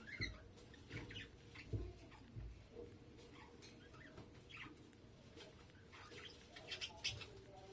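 Faint, high squeaky cheeps from a budgerigar chick, scattered short calls typical of begging at feeding time. A few soft low knocks come in the first few seconds.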